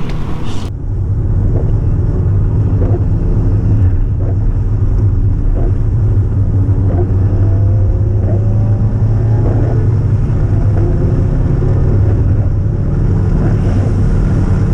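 Subaru Impreza WRX's flat-four engine cruising steadily, a continuous low drone mixed with road noise. Its pitch shifts only slightly.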